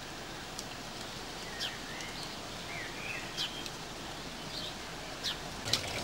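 Faint chirps of small birds twittering over a steady outdoor hiss, with a few soft clicks scattered through it.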